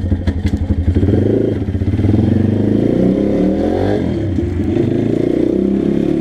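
Pit bike engine running under way, its pitch shifting with the throttle: it dips about four seconds in, then climbs steadily.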